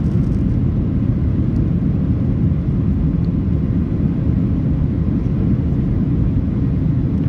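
Steady low rumble of a Boeing 737-800's CFM56 engines and rushing air, heard inside the cabin during the climb just after takeoff.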